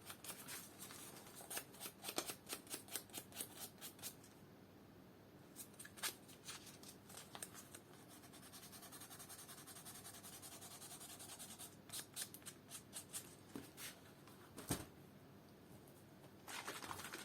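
Faint hand sanding of shoe leather with 600-grit fine sandpaper: a quick run of scratchy back-and-forth strokes for about four seconds, then scattered strokes with pauses and a single sharp click near the end.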